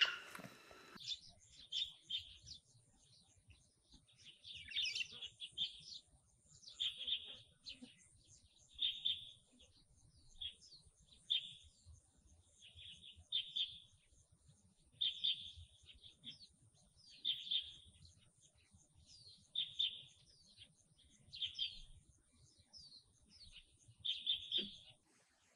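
A wild bird calling over and over, a short high chirping phrase about every two seconds, with a faint steady high-pitched whine behind it.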